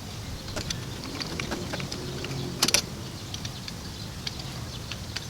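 Brake caliper piston compressor tool being worked against an old brake pad to push the caliper piston back: scattered light metallic clicks with a low hum, and a louder double click about two and a half seconds in.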